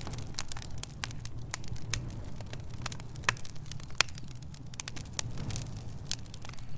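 Wood fire crackling in a fireplace: irregular sharp pops and snaps over a steady low rumble of flame.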